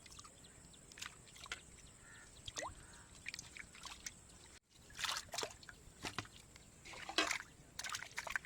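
Water splashing and dripping in short, scattered bursts as pieces of fish are handled in water, with a brief break about halfway through.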